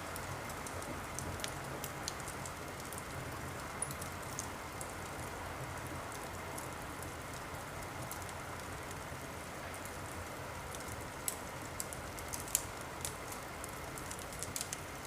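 Wood fire crackling in a fireplace: a steady soft hiss with scattered sharp pops and snaps, which come more often near the end.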